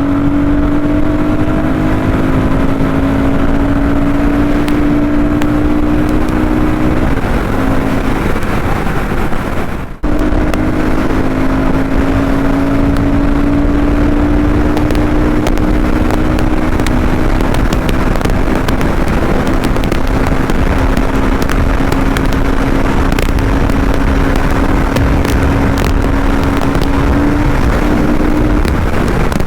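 Royal Enfield Guerrilla 450's single-cylinder engine running hard at high speed, holding a steady high-rev note that sags slowly in pitch, under heavy wind rush. The note breaks off briefly about ten seconds in, then picks up again.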